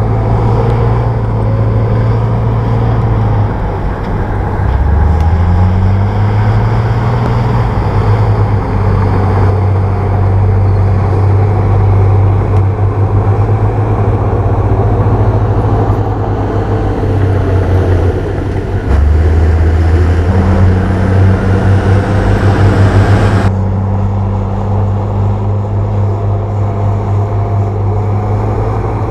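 Bulldozer diesel engine running under load, its pitch rising and falling as it is throttled. The engine climbs about five seconds in and dips briefly near the twenty-second mark. The higher clatter drops away suddenly a few seconds later.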